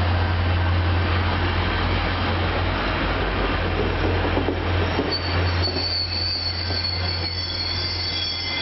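Caltrain diesel commuter train at the platform: a steady low diesel hum under the rolling rumble of the cars. A little past halfway through, a high-pitched wheel squeal sets in and carries on.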